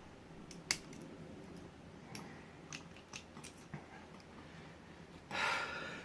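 Steel lock picks clicking and scraping inside an ABUS 83AL/45 padlock core as it is being picked: scattered light clicks, the sharpest about a second in. Near the end comes a short, loud exhale.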